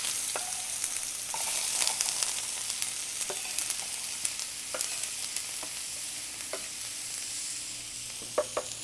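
Diced onions sizzling as they hit a skillet of smoking-hot oil, scraped in off a wooden cutting board with a knife. A steady high hiss, a little stronger in the first couple of seconds, with scattered sharp pops and clicks.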